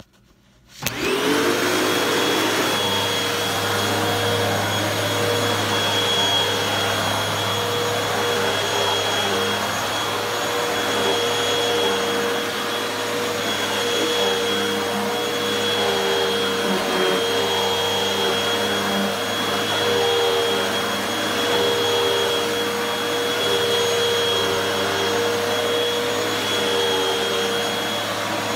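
Hoover WindTunnel 2 upright vacuum cleaner switched on about a second in, its motor spinning up quickly to a steady whine and running on at full speed.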